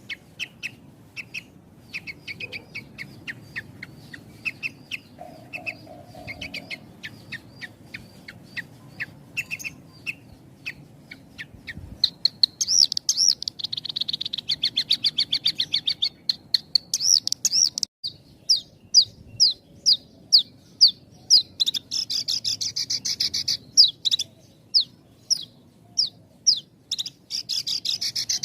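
Horsfield's bush lark (branjangan) singing: a fast, continuous run of chirps and whistled notes with only short gaps between phrases. It grows louder about twelve seconds in, with two stretches of dense trilling.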